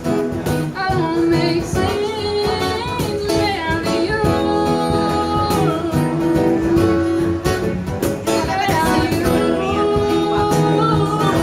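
Live acoustic country song: long held sung notes with a wavering pitch over strummed acoustic guitar and a steady cajon beat.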